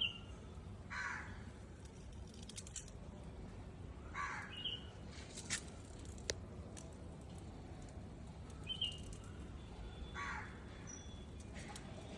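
A crow cawing, three single caws spaced a few seconds apart, with a small bird giving brief high chirps in between, over a steady low background noise.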